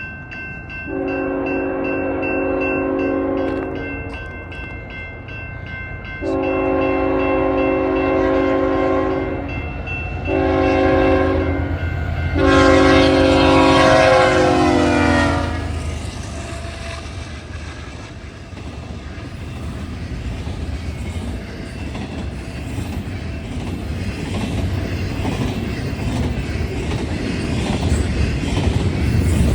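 BNSF freight train's locomotive horn sounding four blasts, long, long, short, long (the grade-crossing signal), the last blast falling in pitch at its end. Then the steady rumble and clatter of the container cars rolling by on the rails.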